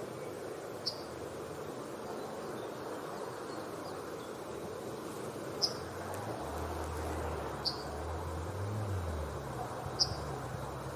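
Yellowhammer giving single short, sharp high call notes, four of them a few seconds apart, over steady outdoor background noise; a low rumble comes in about halfway through.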